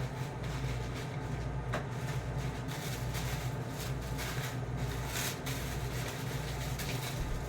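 Steady low mechanical hum with light rustling and a few soft clicks of frozen food packages being handled and set into a freezer.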